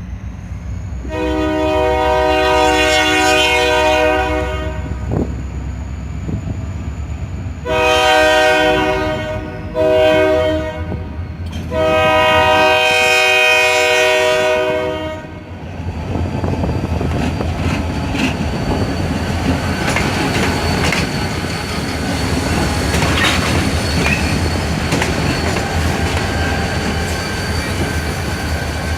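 Freight locomotive air horn sounding the long-long-short-long grade-crossing signal, a chord of several steady tones. The train then rolls past with a steady rumble and wheels clicking over rail joints.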